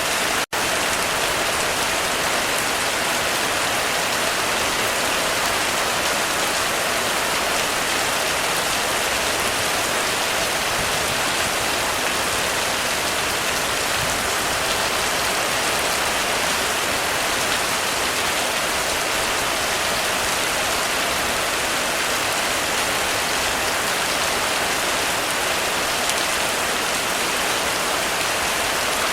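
Heavy rain falling steadily on a roof, an even hiss. The sound cuts out for an instant about half a second in.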